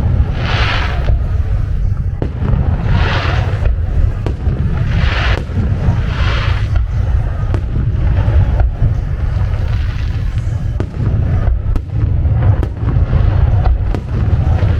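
Fireworks going off: a continuous deep rumble of booms, with several crackling, hissing bursts in the first half and sharp scattered pops in the second half.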